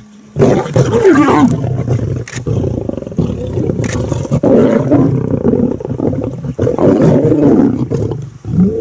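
Lions vocalising loudly in several long bouts with brief breaks between them.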